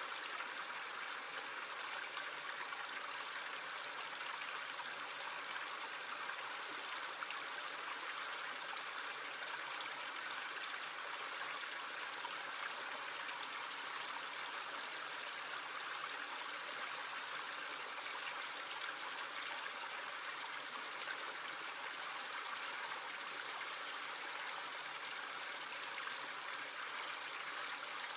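A small stream running steadily: an even, unbroken rush of flowing water.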